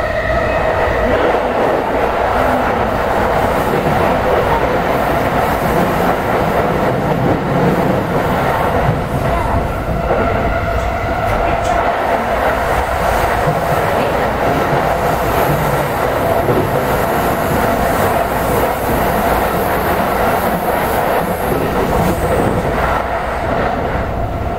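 Interior running noise of a JR East E217 series commuter train at speed: a loud, steady rumble of wheels on rail with a steady whine over it and some clatter. The train is being run fast to make up a delay.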